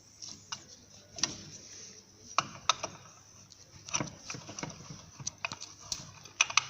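Scattered light clicks and knocks, irregular and about a dozen in all, from tools and suspension parts being handled while new upper control arm links are fitted to a car's front suspension.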